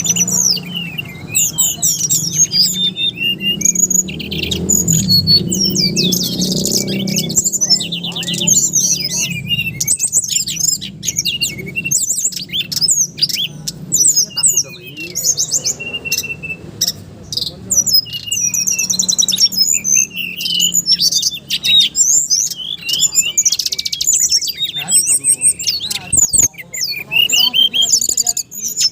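SRDC songbird singing loudly and without pause, a fast stream of chirps and trills.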